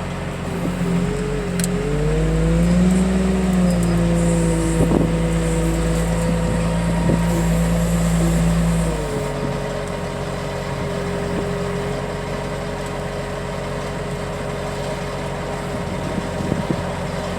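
Heavy equipment engine revving up from idle about half a second in, held at higher revs for about eight seconds, then dropping back to a steady idle about nine seconds in.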